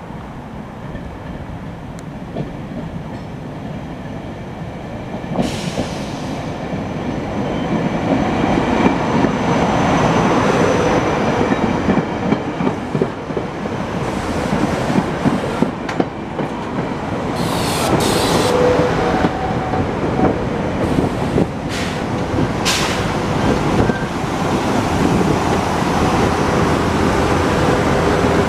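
SEPTA GE Silverliner IV electric multiple-unit train arriving and rolling past, its running noise growing louder as it nears, with wheels clattering over the rails and a few short high-pitched squeals.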